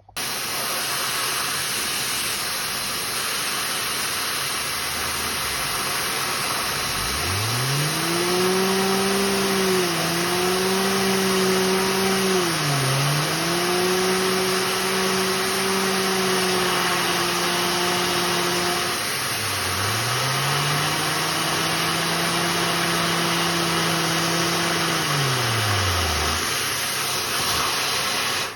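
Lego vacuum engine driven by a vacuum cleaner: the cleaner's loud, steady rush of air, with the engine's pitched hum spinning up about seven seconds in to a high, steady speed, estimated at around 8,500 to 12,000 RPM. The engine dips in speed twice, slows and spins up again about two-thirds of the way through, and winds down near the end.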